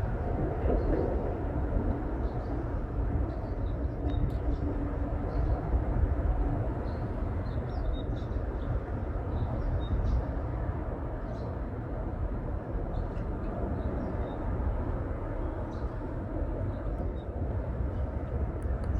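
Birds chirping in short, faint calls scattered through, over a steady low rumble that is the loudest thing heard.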